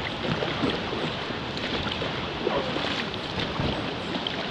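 River water rushing steadily around a whitewater raft.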